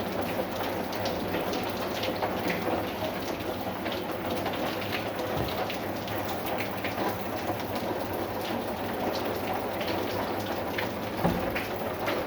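Steady rain, with many separate drops striking a surface close by. There is one louder knock about 11 seconds in.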